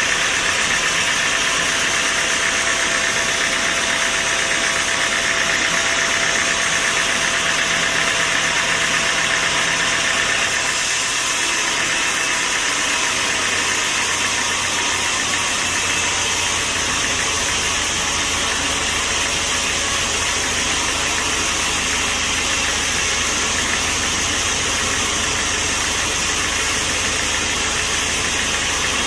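Sawmill machinery running steadily: a loud, even mechanical noise with an engine in it. Its character shifts about ten seconds in, and a steady low hum joins a few seconds later.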